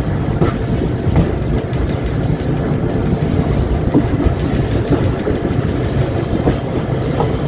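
Indian Railways express train running on the rails, heard from aboard a coach: a steady rumble with the wheels clicking over rail joints.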